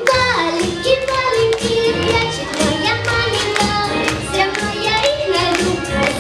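A child singing a song over instrumental music with a steady beat.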